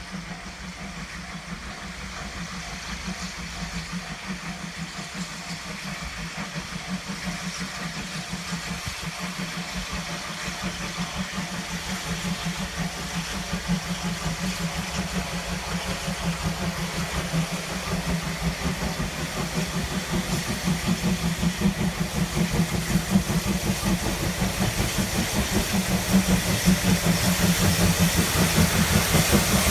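D51 steam locomotive working hard, a fast, even rhythm of exhaust beats that grows steadily louder as the train draws nearer.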